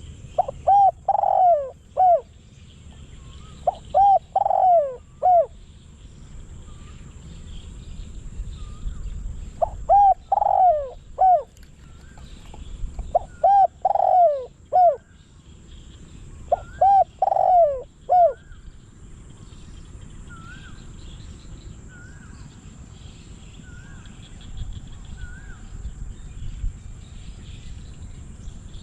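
Spotted dove cooing: five phrases of three or four falling coos, spread over the first two-thirds, then it stops. Other small birds chirp faintly in the last third.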